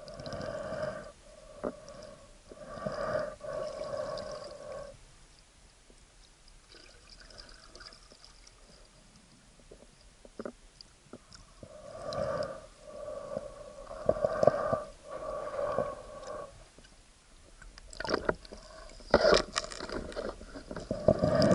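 Muffled underwater water noise picked up by an action camera inside its waterproof housing: irregular swishes of moving water with a few sharp clicks, loudest near the end.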